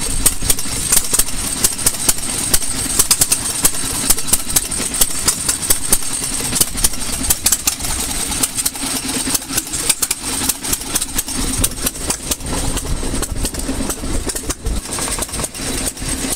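Several antique single-cylinder stationary gas engines running, with many sharp exhaust pops in an irregular, overlapping rhythm over a steady mechanical hum.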